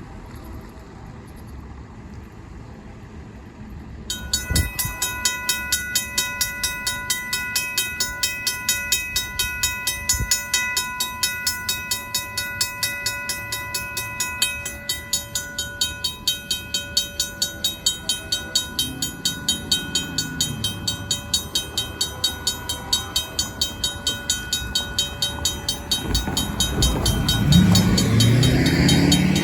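RACO mechanical railroad crossing bell starting up about four seconds in and ringing in a fast, steady rhythm as the crossing warning activates. A Union Pacific freight locomotive's horn sounds for the crossing, first fainter about two-thirds through, then loud near the end as the train arrives.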